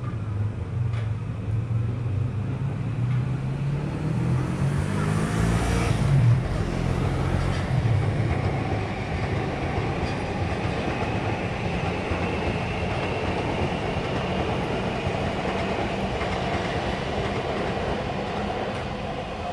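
Electric train passing on the tracks, its running noise loudest about six seconds in, with a low hum that shifts in pitch around that point, then a steady rolling sound.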